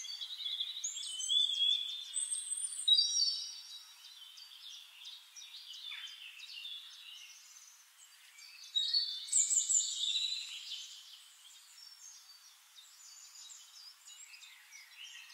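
Several songbirds chirping and whistling, many short high calls and trills overlapping; louder in the first few seconds and again about nine seconds in.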